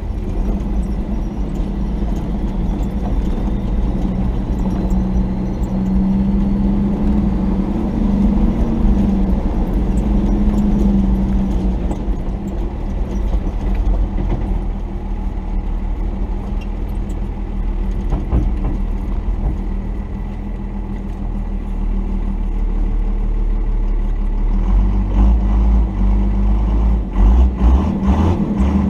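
Cummins diesel engine of a 1990 Dodge D250 pickup running steadily as the truck crawls a rough mountain trail, with a run of knocks and bumps near the end.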